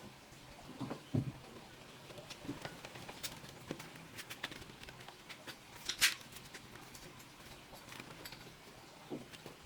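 Hands handling laptop parts: scattered light clicks and taps, with a sharper click about six seconds in.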